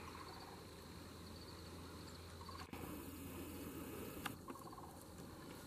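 Faint outdoor field ambience, a soft steady background with a couple of small clicks partway through.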